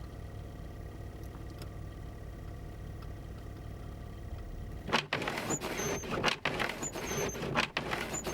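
Low steady rumble of a car idling, then about five seconds in a sudden louder, uneven rushing noise with three short high beeps about a second apart.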